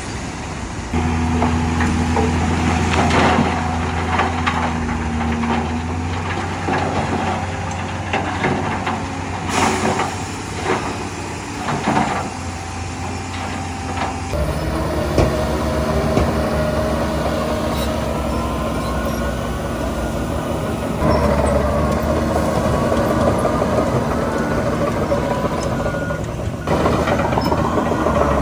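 Heavy diesel earthmoving machinery running: a steady low engine hum with several sharp metallic clanks and a brief hiss in the first half, then engine sound with whining tones that rise and fall. The sound changes abruptly several times.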